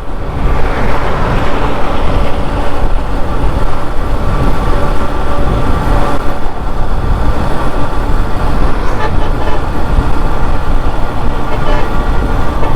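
Wind buffeting the microphone over a motorcycle's engine and road noise while riding at speed, a steady low rumble.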